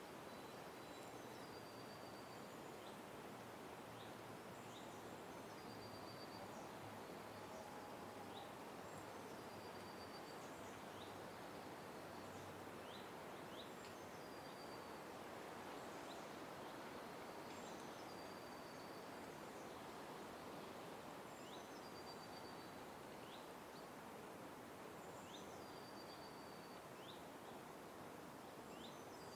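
A bird calling faintly, repeating the same short, high phrase of quick chirps and a brief trill about every four seconds, over a steady background hiss.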